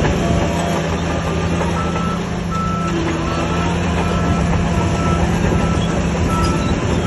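Crawler bulldozer's diesel engine running steadily under load, with the steel tracks clanking and squealing. From about two seconds in, a reversing alarm beeps roughly every 0.7 seconds.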